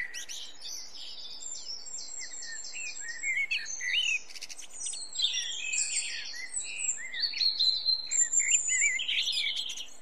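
Several songbirds singing and chirping at once: a busy mix of whistles, quick chirps, trills and short runs of repeated notes.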